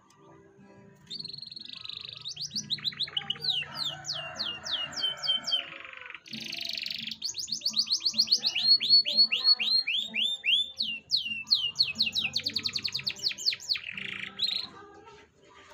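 Domestic canary singing a long, fast song of rapid trills and repeated downward-sweeping notes, starting about a second in, pausing briefly midway and stopping near the end.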